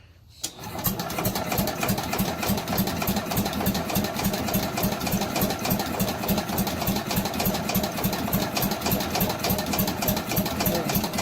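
A Briggs & Stratton engine on an Allis-Chalmers Big Ten garden tractor being cranked over by its electric starter with the choke on, in an even chugging rhythm of about six beats a second. It cranks for about eleven seconds without firing, then stops.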